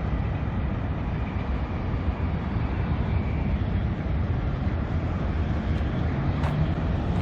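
Steady low rumble of road traffic and outdoor machinery, with no single event standing out.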